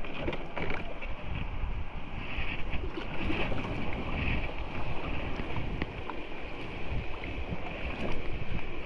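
Creek water rushing around a kayak in rapids, with wind buffeting the microphone in a fluctuating low rumble and scattered small knocks.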